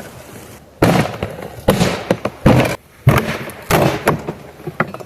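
A dishwasher being smashed apart: a series of about five heavy crashes of metal and plastic, roughly one every two-thirds of a second, each with a short rattle after it.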